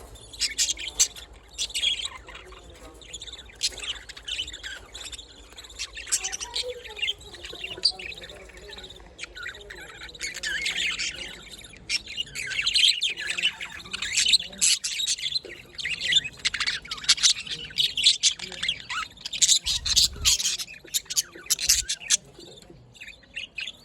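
Budgerigars chirping and warbling rapidly, with squawks mixed in. The calls are busiest in the second half.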